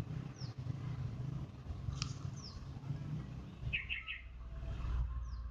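Small birds chirping in the background: short, high, falling chirps every two to three seconds and a quick run of three notes about four seconds in, over a low steady rumble.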